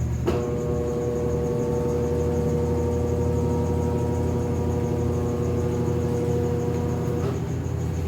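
Consul Facilite 8 kg top-loading washing machine in its spin cycle, a steady low rumble throughout. A steady hum of several tones cuts in with a click just after the start and cuts out with another click about seven seconds in.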